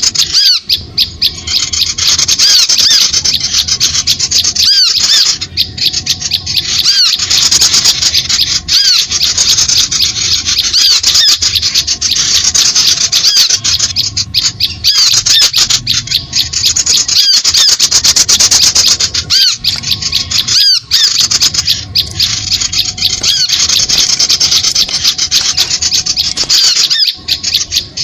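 Dense, unbroken chatter of many small birds, rapid high chirps and twitters crowding over one another. It is a bird-lure (suara pikat) recording of small-bird calls, played to draw small birds in to lime sticks.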